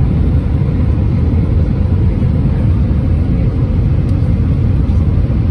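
Steady low rumble of an Airbus A320-231 heard from inside the passenger cabin.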